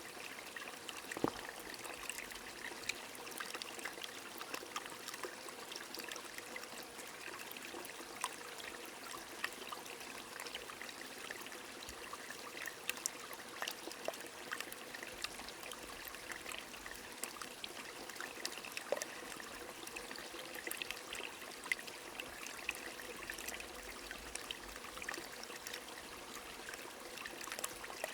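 Rain falling with a stream trickling: a steady hiss of running water scattered with many small raindrop ticks.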